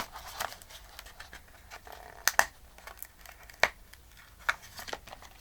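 Paper being handled and shifted on a work surface: soft rustling with scattered light taps and clicks, the sharpest a little over two seconds in and again at about three and a half seconds.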